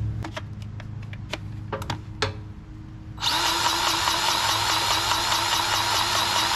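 A few light metal clicks as the tool is fitted, then about three seconds in a battery-powered grease gun starts and runs steadily, its pump pulsing about four times a second. It is pumping grease through the fitting into the excavator's track adjuster to tension the track.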